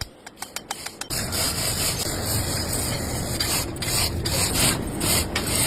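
Abrasive rubbing on the hydraulic jack's metal, a steady rasp that starts about a second in after a few light clicks.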